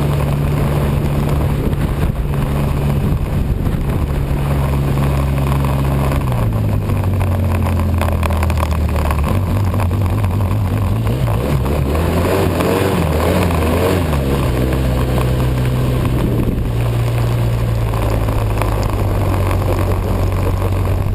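Engine of the machine being ridden, running steadily. Its pitch drops about six seconds in, wavers and climbs again a few seconds later, then holds steady, over a constant rush of noise.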